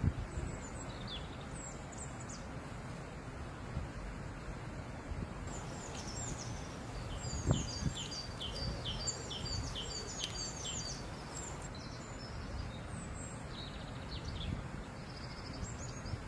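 Small songbird chirping: scattered high chirps, then a quick run of short repeated chirps from about five and a half to eleven seconds in. Under it, a steady low rumble of wind on the microphone, with one soft thump about halfway through.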